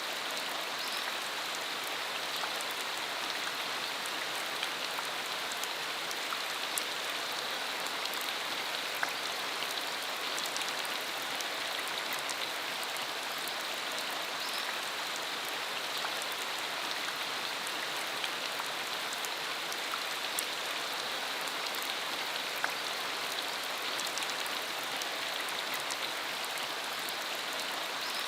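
Steady rain falling on a rural road, a constant hiss with the sharp taps of individual drops scattered through it.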